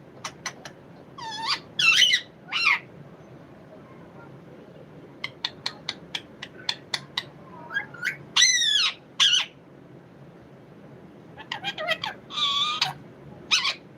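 Pet parrot calling: sharp clicks and short squawks that bend in pitch, coming in three bunches with pauses between them.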